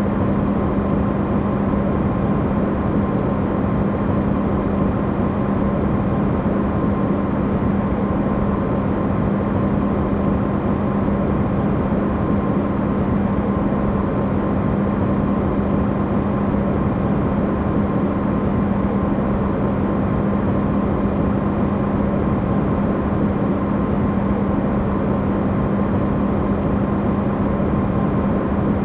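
Electrolux refrigerator running, recorded amplified: a steady, unchanging hum with a low tone and a fainter higher one over a rushing noise.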